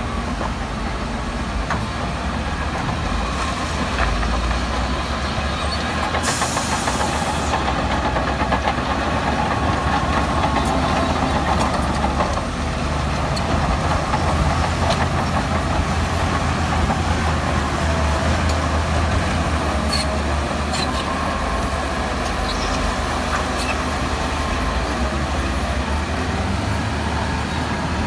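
Heavy diesel earthmoving machinery running steadily under work, a deep engine drone with a few scattered clanks.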